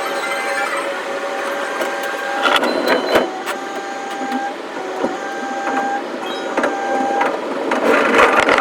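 Electric commuter train running sounds played back at about five times speed: a rapid run of clicks with short, high whining tones that start and stop every second or two.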